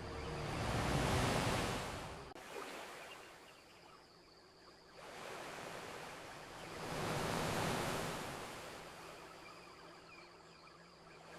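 Ocean waves washing onto a beach: one wave surges about a second in and cuts off abruptly, then a second wave builds and breaks in the middle of the stretch before slowly receding.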